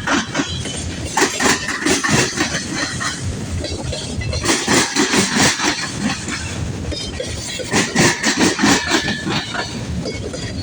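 Freight cars of a long CSX manifold train rolling past, the wheels clicking over rail joints in repeated groups as each set of trucks passes, with a faint high ringing tone in some groups.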